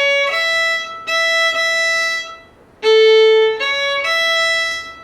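A single fiddle playing slow, sustained bowed notes, a phrase of a simple folk melody: a note held about two seconds, then a brief break, the open A string held under a second about three seconds in, then a short climb to a higher held note near the end.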